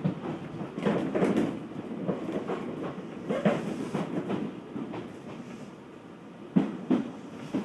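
Odakyu 1000-series electric train running, heard inside the car: a steady rolling rumble with the clickety-clack of wheels passing over rail joints, in groups of two or three knocks. It quietens for a moment before the last group.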